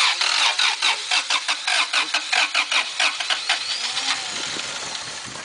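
Honda D16A8 four-cylinder engine being cranked over in quick, even pulses, about five or six a second, then settling into a steadier, rough running sound for the last two seconds. The engine is being run to destruction.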